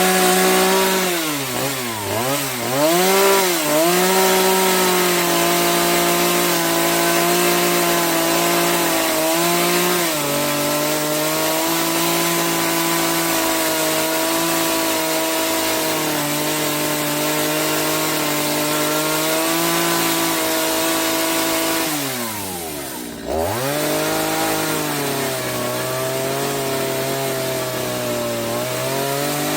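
Chainsaw running and cutting wood, its engine pitch dipping and recovering several times in the first few seconds, then holding steady under load. About 23 seconds in the engine drops briefly toward idle and revs back up.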